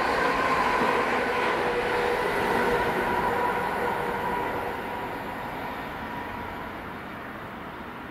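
Chiltern Railways diesel multiple unit passing on the railway, its engine and wheels running with a steady whine. The sound fades away after about three seconds.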